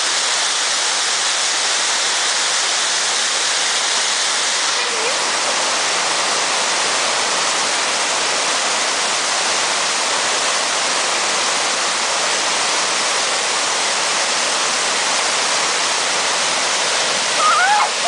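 Steady rush of a waterfall's water pouring over rock, close to the microphone. A brief raised voice is heard near the end.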